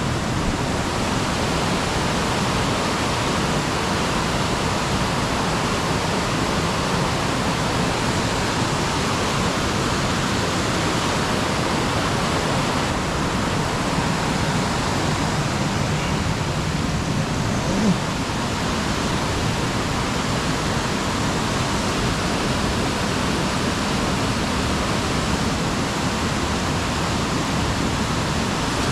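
Steady rushing of water, with one short knock about eighteen seconds in.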